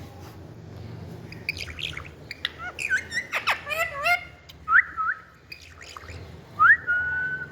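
Indian ringneck parakeet calling: a quick run of short rising chirps and squawks, then a few whistles that swoop up and hold one pitch. The longest whistle comes near the end.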